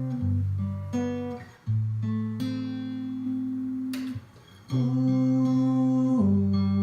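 Acoustic guitar playing held chords, with short breaks about one and a half and four seconds in and a sharp strum just before the second break.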